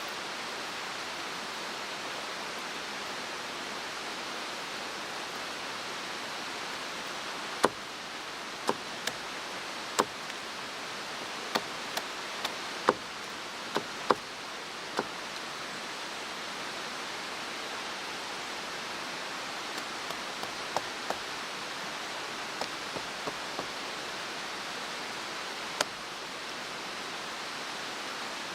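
A mountain stream rushing steadily. Over it come sharp clicks or knocks, about a dozen close together in the middle and a few more scattered later.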